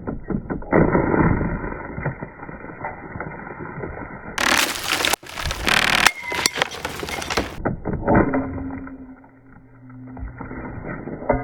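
A plastic table fan being smashed: repeated cracking and crunching of plastic, muffled for most of the time, with a brighter, louder run of sharp impacts in the middle.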